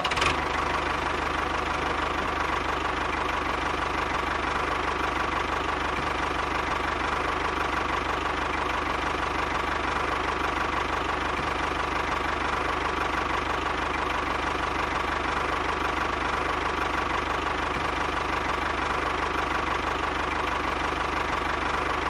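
Tractor engine running steadily at an even, unchanging pace.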